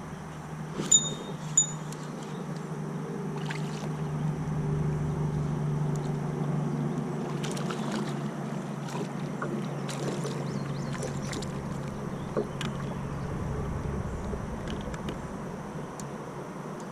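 A steady low motor hum that swells and then fades near the end, with two short high electronic beeps about a second in and scattered light knocks and ticks on the boat.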